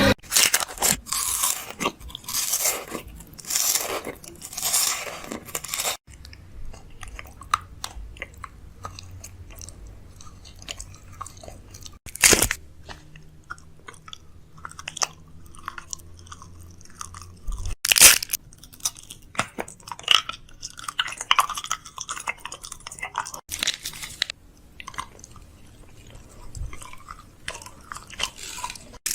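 Irregular crunching and crackling. It is dense for the first six seconds, then sparser, with two sharp loud cracks about twelve and eighteen seconds in and a low hum under the middle part.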